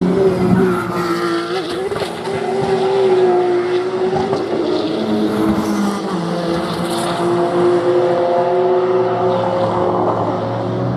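Race car engine running on track, its note rising and falling.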